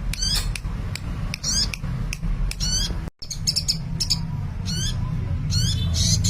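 Sunbird singing in a lively way: rapid high-pitched chirps and quick twittering trills, repeated every half second or so, over a steady low hum. The sound drops out briefly about three seconds in.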